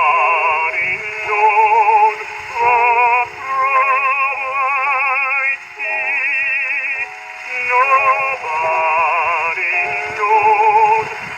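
A baritone singing a spiritual from a 1922 acoustic-era 78 rpm record, holding long notes with a wide vibrato. The narrow early-recording sound carries little above about 3 kHz.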